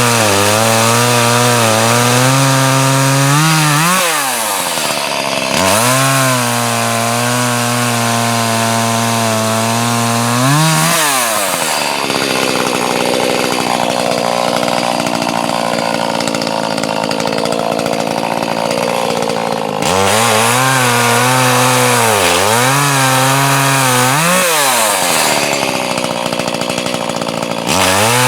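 Chainsaw running while cutting firewood logs. The engine note drops and climbs back up several times as the throttle is let off and opened again, and for a stretch in the middle it runs rougher and less even.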